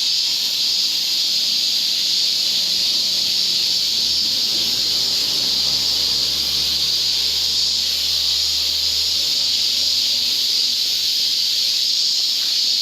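Chorus of cicadas calling, a pretty loud, steady high-pitched drone that doesn't let up.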